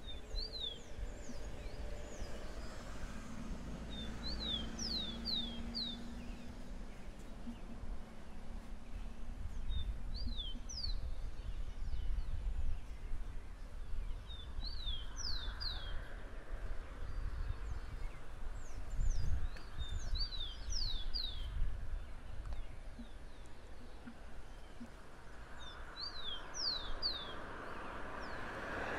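A songbird repeating a short phrase of three or four quick, high, sweeping notes about every five seconds, over low rumbling outdoor background noise. A broad rushing noise builds near the end.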